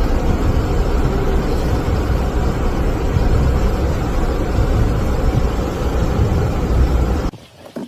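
Loud, steady rumbling noise, heaviest in the low end, that cuts off suddenly about seven seconds in.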